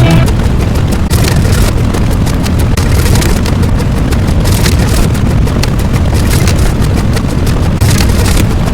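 Loud, continuous rumbling noise with many short crackles through it, in the manner of an explosion or engine sound effect.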